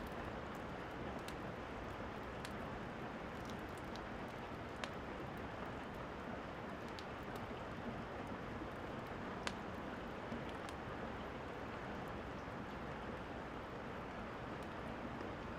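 Steady rainfall hiss with scattered sharp pops and clicks, a few seconds apart, from rain drips and a crackling fire.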